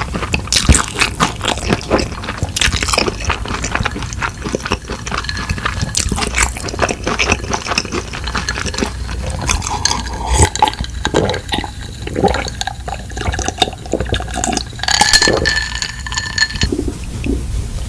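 Close-miked wet eating sounds: a quick run of smacks and clicks from chewing and slurping noodles, with a couple of short ringing clinks near the end.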